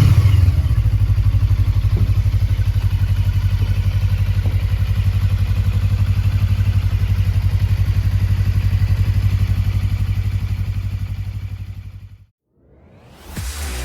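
Suzuki GSR250's parallel-twin engine with a BMS aftermarket muffler idling steadily, settling from a throttle blip at the start. The sound fades out about twelve seconds in.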